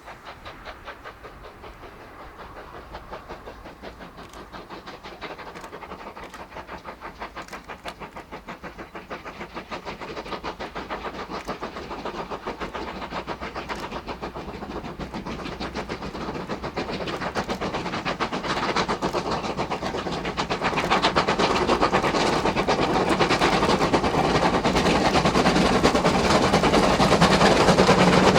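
Two steam locomotives double-heading a train, working hard with rapid, rhythmic exhaust beats that grow steadily louder as the train approaches.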